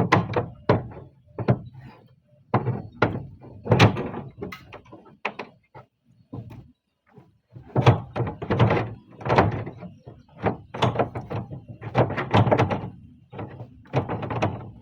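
Irregular series of knocks and thuds from roof-tile repair work, with a brief pause about six to seven seconds in.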